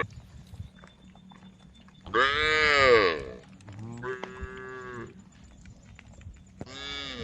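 Cows mooing: a loud moo about two seconds in, its pitch rising and then falling, followed straight away by a quieter, steadier moo, and another quieter moo starting near the end.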